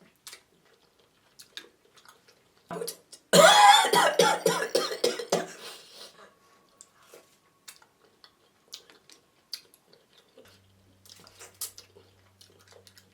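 A person coughing hard for about two seconds, starting about three seconds in. Faint scattered clicks and smacks of eating follow.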